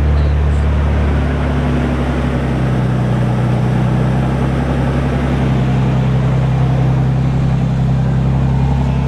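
2011 Toyota Tacoma's engine idling through a modified exhaust, kind of loud and steady, its pitch settling slightly lower about two seconds in.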